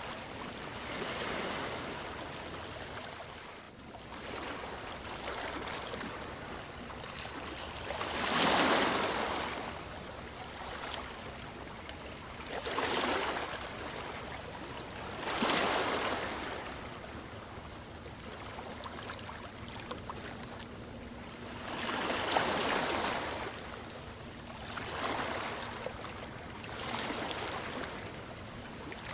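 Sea waves washing in, one after another: surges every few seconds over a steady hiss of water, the strongest about a third of the way in, at the middle and about three quarters of the way through.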